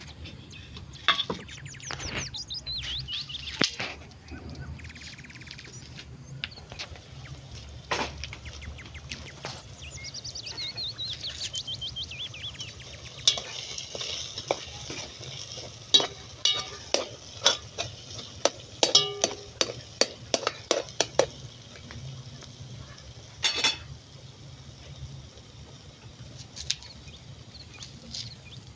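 Utensil stirring and scraping food in a frying pan, with sizzling and many irregular clicks and knocks of metal on the pan.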